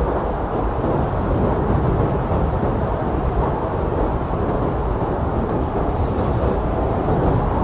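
Strong blizzard wind blowing steadily, a deep rushing roar with no gusts breaking through.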